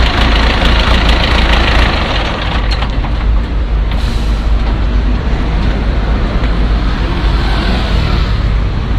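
DAF truck's diesel engine idling with a steady, even rumble.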